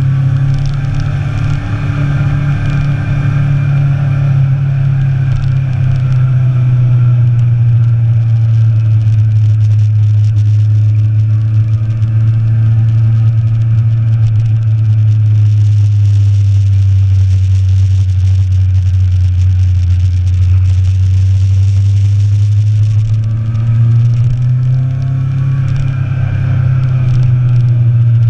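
Motorcycle engine running under way, a steady note that sinks slowly over about twenty seconds as the bike eases off, then climbs again near the end.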